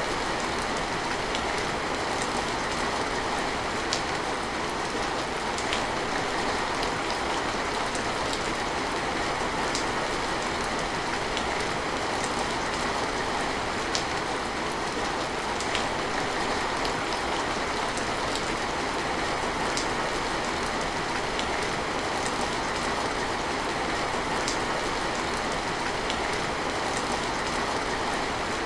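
Steady rain falling, an even hiss with scattered sharp ticks of single drops landing.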